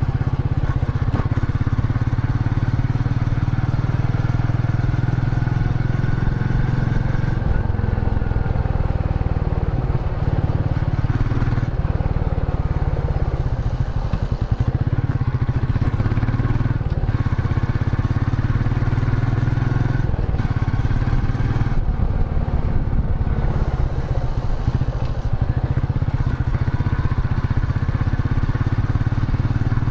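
Royal Enfield Meteor 350's single-cylinder engine and exhaust running steadily while riding, the engine note shifting up and down a little with the throttle, with a few short drops.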